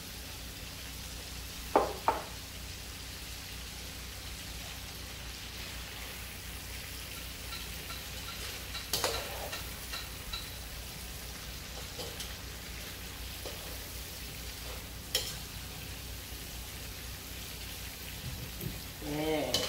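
Sauce sizzling steadily in a steel wok as fried whole fish are stirred into it, with a metal spatula clinking against the wok a few times, two sharp knocks about two seconds in.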